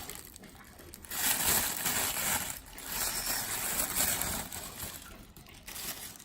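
Tissue paper and packing rustling and crinkling as hands unwrap a mail-order plant, in two stretches of a second or two each.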